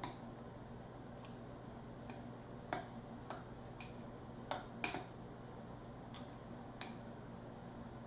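A spoon clinking against a dish during eating, with about eight sharp, irregularly spaced taps, the loudest about five seconds in. A washing machine hums steadily underneath.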